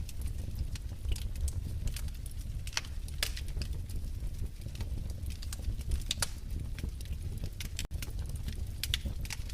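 Wood fire crackling in a fireplace: irregular sharp snaps and pops over a low, steady rumble of flame, with a momentary dropout about eight seconds in.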